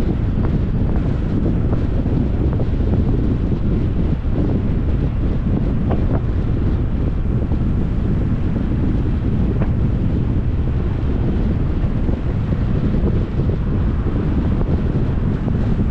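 Wind rushing over the microphone of a camera on a moving 2021 Jeep Compass, a steady low rumble mixed with road noise, with a few faint clicks.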